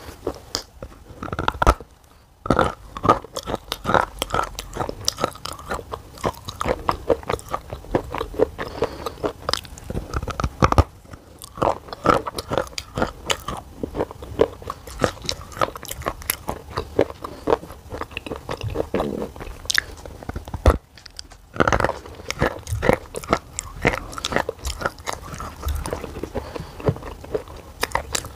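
A person chewing black shale clay with the mouth closed: many sharp, irregular crunches as the clay is ground between the teeth. There are short pauses about 2 seconds and 21 seconds in.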